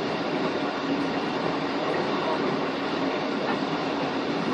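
Passenger train running steadily along the track, its wheel and rail noise heard from inside the carriage.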